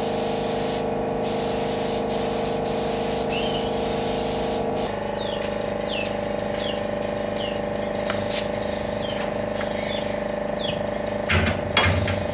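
Paint spray gun hissing over a steady machine hum; the spray stops about five seconds in while the hum carries on, followed by short falling chirps and a couple of sharp knocks near the end.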